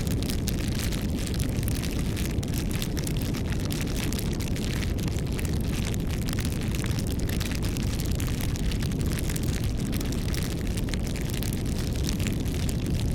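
Open wood fire burning: a steady low rumble with constant fine crackling and popping from the burning wood.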